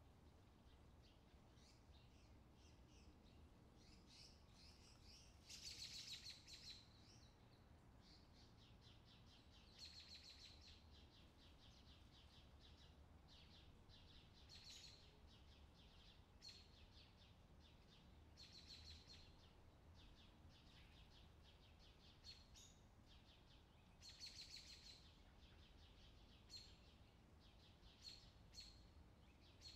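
Faint bird chirps and short trills, one every two or three seconds, over a low steady hum.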